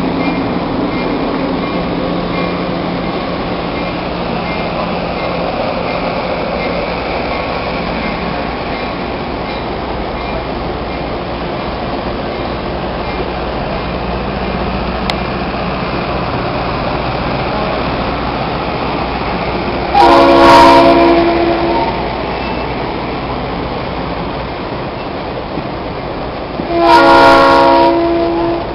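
Passenger cars of an excursion train rolling past with a steady rumble and wheel clatter. About two-thirds of the way in, and again near the end, the train sounds two long signal blasts, each about a second and a half, louder than the passing cars.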